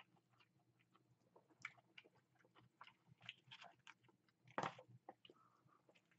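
Faint chewing of a crispy fried chicken sandwich, with small irregular mouth clicks throughout. One louder crunch comes about four and a half seconds in, as a fresh bite is taken.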